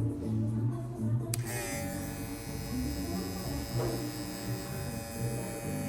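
A click about a second and a half in, then a Babyliss Pro cordless hair clipper switched on and running with a steady motor buzz, over background music.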